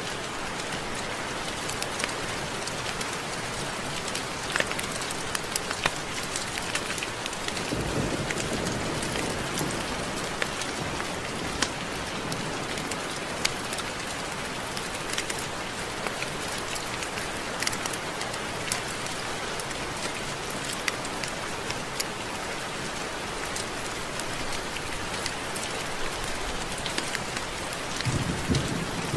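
Steady rain with many individual drops ticking. There is a low rumble of thunder about eight seconds in and another near the end.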